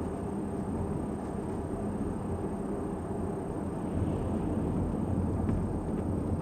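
Steady rumble of a car being driven: road and engine noise, with a faint high whine throughout.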